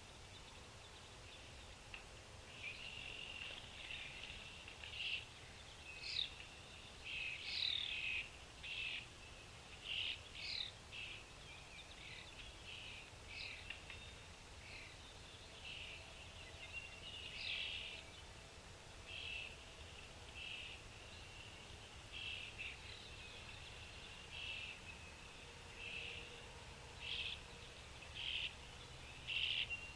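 Small birds chirping, a string of short high calls coming every second or so, some in quick clusters, over a steady low background hum.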